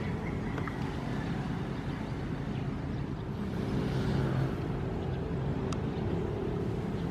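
Ocean waves washing in: a steady low rush that swells briefly about four seconds in.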